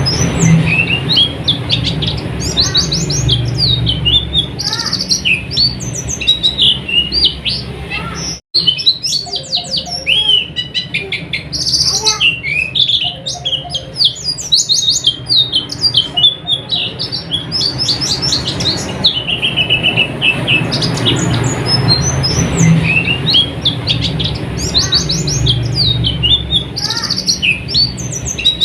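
Pleci (white-eye) singing: a continuous fast, high-pitched twittering of rapid chirps and short trills, the 'ngeriwik' chatter used as a master song for caged pleci. The song cuts out for an instant about eight seconds in.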